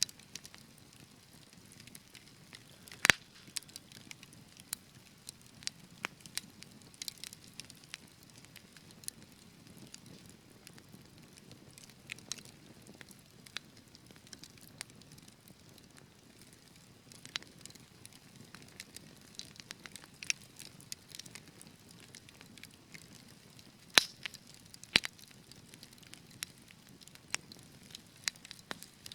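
Fire crackling in a fireplace: irregular snaps and pops over a soft low rustle of flames. The two loudest pops come about three seconds in and about five seconds before the end.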